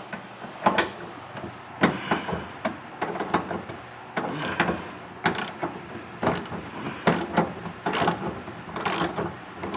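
Ratchet wrench clicking as bolts are loosened, with irregular metal knocks and clanks of the tool and socket.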